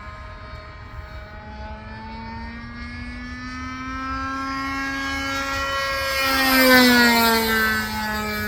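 Radio-controlled model biplane's engine buzzing in flight, growing louder as the plane approaches, then passing close about two-thirds of the way through with a drop in pitch as it flies by.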